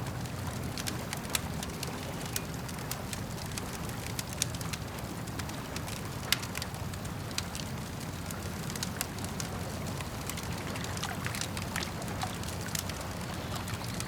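Campfire crackling: irregular sharp pops and snaps, one louder crack about six seconds in, over a steady low rumble.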